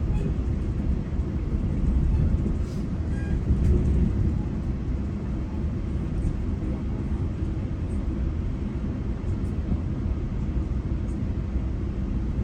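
Steady low rumble of a GO Transit commuter train in motion, heard from inside the passenger coach: wheels running on the rails.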